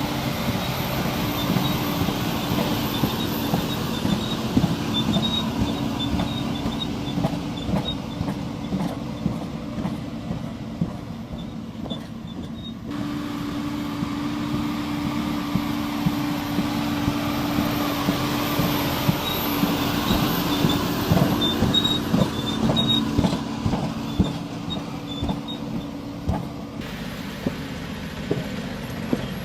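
Heavy machinery running, with a steady low hum and many clicks, knocks and squeaks of metal parts. The sound changes abruptly twice, about thirteen and twenty-seven seconds in.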